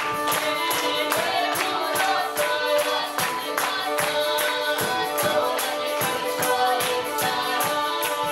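Folk ensemble playing a traditional multi-part tune: sustained melody lines over an even percussion beat of about three strokes a second.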